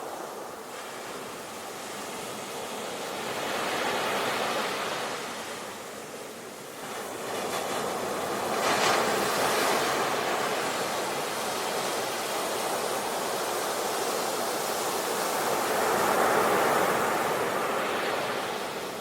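Ocean waves breaking and washing up the shore, swelling in three surges, the loudest a crashing break about nine seconds in.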